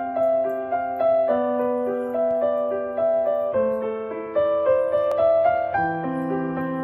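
Background piano music: a slow melody over held chords, with the low notes changing about every two seconds.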